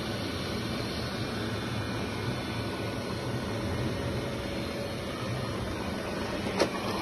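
Roborock S4 robot vacuum running steadily while cleaning, its suction fan giving a jet-like whoosh. A single sharp click sounds near the end.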